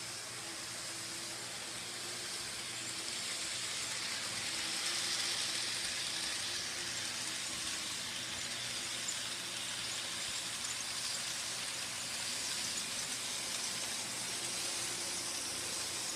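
Model trains running on their track: a steady hissing whir over a faint low motor hum, swelling a few seconds in and again later.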